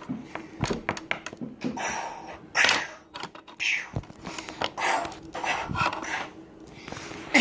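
Hushed whispering with scattered small clicks and a single knock about four seconds in, from toys being handled.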